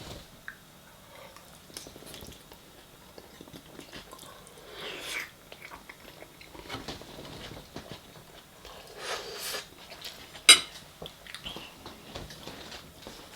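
Close-miked chewing and eating noises, with a couple of breathy swells and a single sharp clink of cutlery on a plate about ten seconds in.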